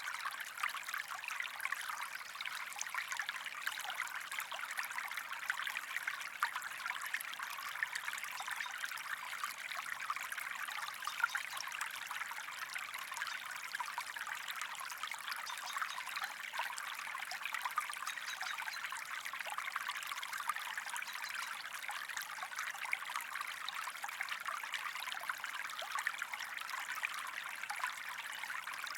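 A small creek's water running and trickling steadily, a light bubbling with many tiny splashes and little low rumble.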